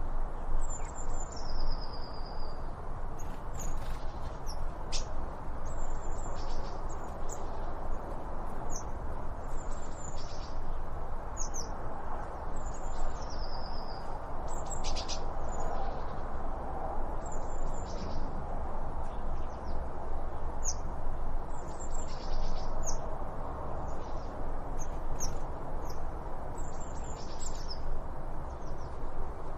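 Small birds calling with short, high chirps, many sliding down in pitch, a few each second, over a steady background hiss.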